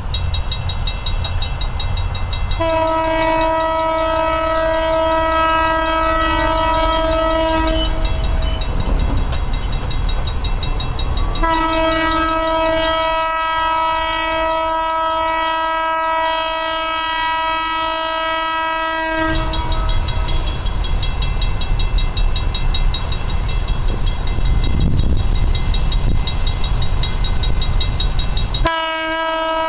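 ALCo RSD35 diesel locomotives' air horn sounding two long blasts, about five and eight seconds long, and starting a third near the end, over the steady low rumble of the train running.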